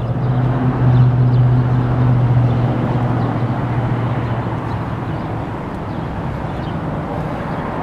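Low, steady engine hum of a motor vehicle, loudest in the first few seconds and then fading, over a rushing outdoor background noise.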